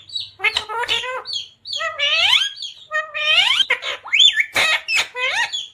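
Pet parrot calling and chattering: high-pitched, drawn-out rising calls with short chirps between them, and two sharp clicks about four and a half seconds in.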